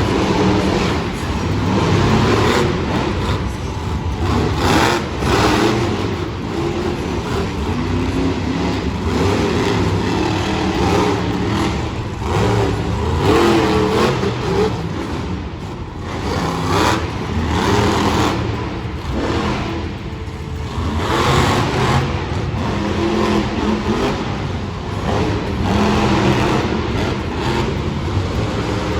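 Monster truck engines running loud, the revs repeatedly rising and falling as the trucks accelerate and back off.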